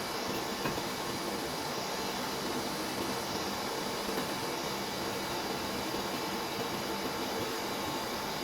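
Steady, even hiss with a faint constant hum underneath and no distinct events.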